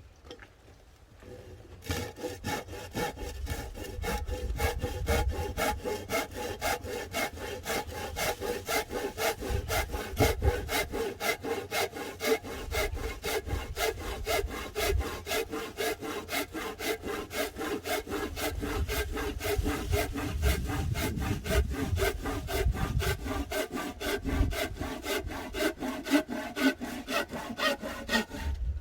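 Hand saw cutting through firewood in a fast, even back-and-forth rhythm of several strokes a second, starting about two seconds in.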